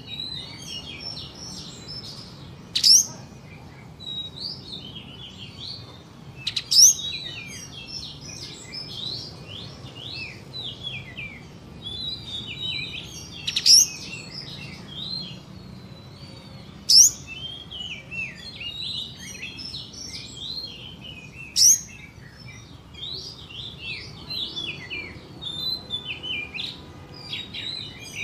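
Kapas tembak songbird singing: a fast run of chattering, warbling notes, broken every few seconds by a loud, sharp, upward-whipping 'shot' note (the tembakan), five of them in all.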